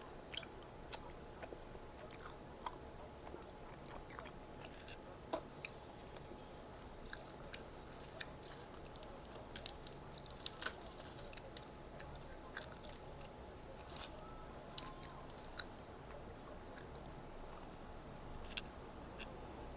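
Close-miked chewing and biting of Korean street-food snacks (tteokbokki and fried bites), with irregular sharp crunches and mouth clicks.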